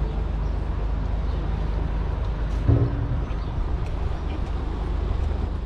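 Vehicle engine idling with a steady low rumble on a town street, and a short louder sound about halfway through.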